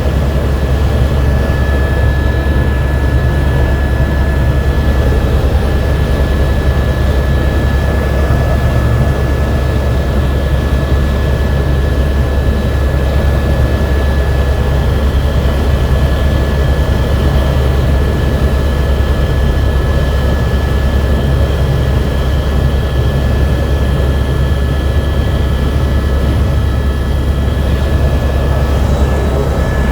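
Helicopter in flight: a loud, steady drone of engine and rotor, heaviest in the low end, with a thin steady whine above it.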